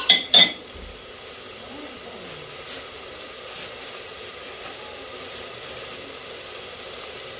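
Seafood frying in a pot with sauce: a steady sizzling hiss, after two sharp knocks right at the start.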